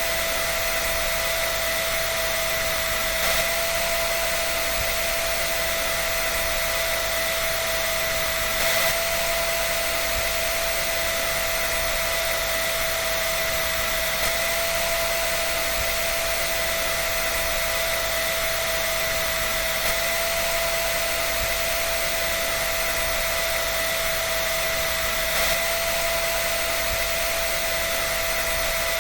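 Electric dryer running steadily: a continuous rush of air with a steady whine, and a faint small bump about every five or six seconds.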